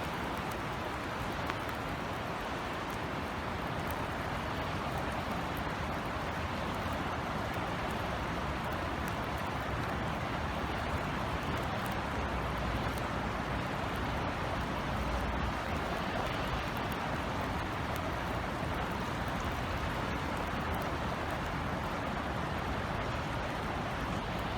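Steady rain falling on outdoor surfaces, an even hiss with faint scattered drop ticks. A low rumble swells briefly about halfway through.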